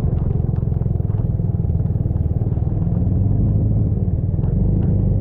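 A vehicle's engine running steadily, a low rumble of fast, even pulses, with scattered light rattles.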